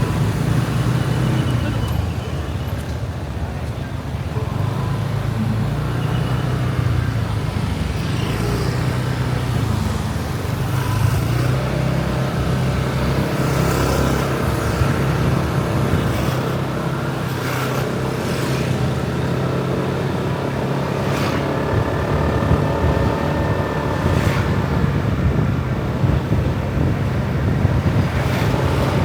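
Motorbike engine running on the road amid traffic, its pitch stepping up and down as speed changes, with a few short clicks.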